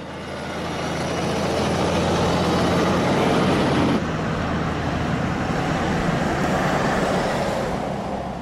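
Heavy truck engine running with road and traffic noise, a steady low drone under a wide rushing noise; the sound changes abruptly about halfway through.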